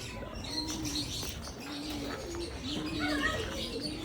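Doves cooing, a repeated low coo about once a second, with fainter chirps from other small birds near the end.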